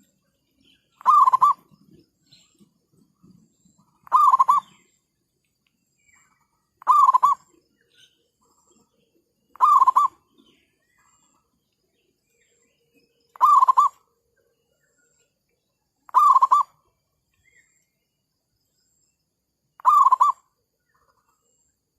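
Zebra dove (merbuk) cooing: a short trilled call, repeated seven times about every three seconds.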